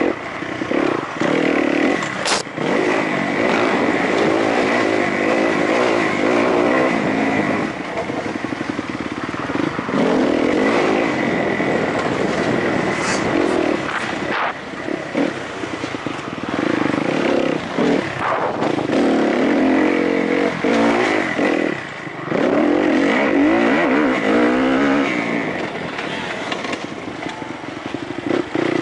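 Kawasaki KX-F four-stroke single-cylinder motocross engine heard from on board, revving up and easing off again and again under hard riding, with short throttle-off dips about 2, 14 and 22 seconds in.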